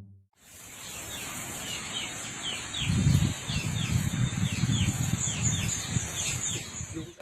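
Outdoor ambience: birds chirping in short repeated calls over a steady high hiss, with low rumbling knocks and thumps starting about three seconds in.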